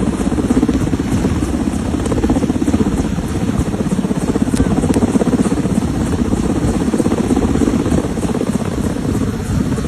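An engine running steadily, with a rapid, even pulsing beat.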